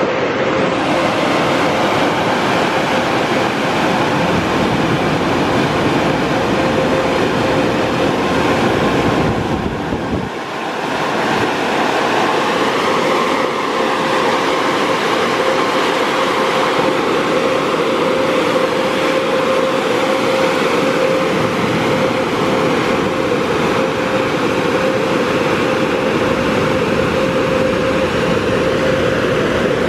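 Mark VII SoftWash XT automatic car wash running, heard from inside the car: a loud steady rush with a steady hum, dipping briefly about ten seconds in.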